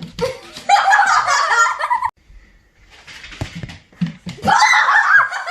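Husky's excited, high-pitched yelping vocalizing in two long bouts, the first about a second in and the second near the end, with a few dull knocks between them.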